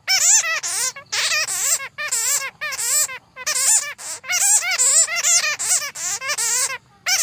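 Bats squeaking and chattering: runs of rapid, high, wavering chirps in bursts of about a second or more, broken by short pauses, with a longer pause near the end.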